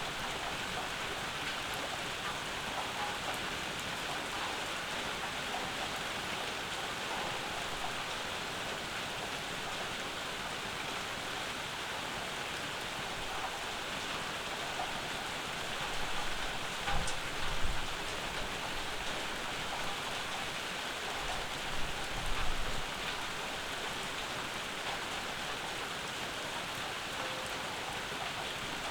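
Steady summer rain falling, an even hiss of drops. Twice, a little past the middle, a brief low rumble rises above it.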